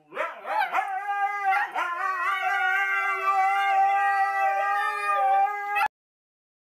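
Two Siberian huskies howling at each other: a few short rising-and-falling yips, then one long steady howl that cuts off suddenly near the end.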